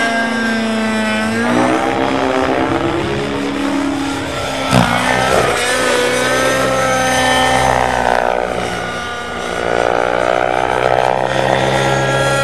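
Small engine of a large radio-controlled helicopter running, its pitch rising and falling several times as the throttle changes, over a steady low drone, with a brief sharp knock about five seconds in.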